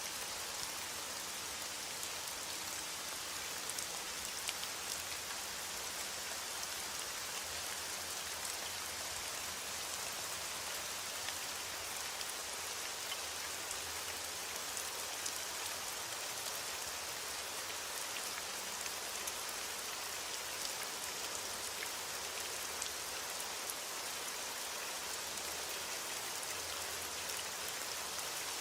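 Steady rain falling, an even hiss with scattered sharper drops.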